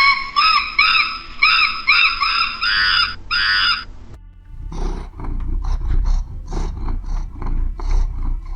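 Animal calls: first a run of short, high calls that rise and fall in pitch, about two to three a second, then after a brief pause a series of rough, low grunting growls.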